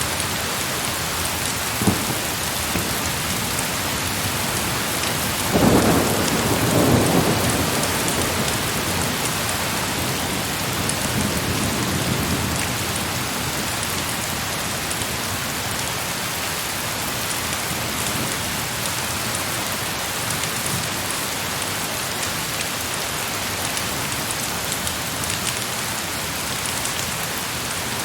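Heavy rain falling steadily, with a roll of thunder about six seconds in that swells and fades over roughly two seconds, and a single sharp crack about two seconds in.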